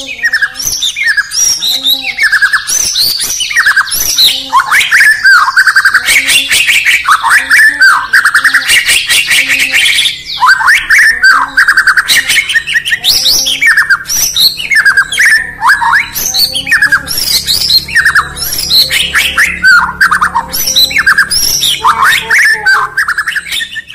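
White-rumped shama (murai batu) singing a loud, varied song of rapid sweeping whistled notes mixed with chattering ticks, going on almost without a pause.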